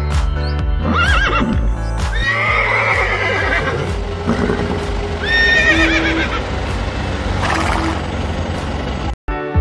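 A horse whinnying three times over background music; each call is a wavering, trilling cry, and the middle one is the longest.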